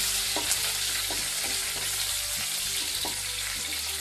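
Chopped garlic, green chillies and curry leaves sizzling in hot oil in a nonstick kadai, with a spatula scraping and tapping the pan now and then as they are stirred.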